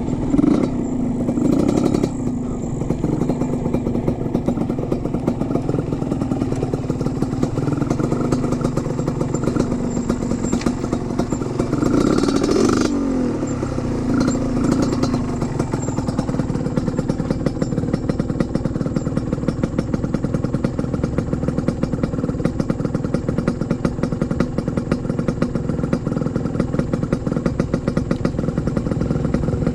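Trail motorcycle engine running steadily at low revs. The engine note rises and falls briefly about twelve seconds in.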